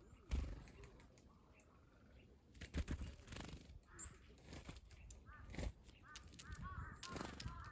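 Birds at a winter feeding spot: a few dull thumps, then a quick run of short, repeated chirping calls from about five seconds in.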